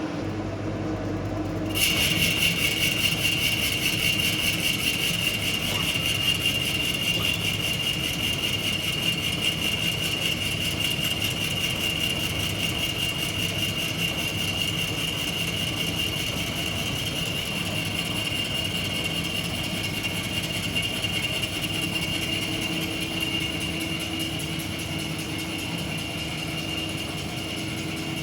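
CNC router spindle running at high speed and cutting wood: a steady high whine with hiss that sets in abruptly about two seconds in, over a lower machine hum.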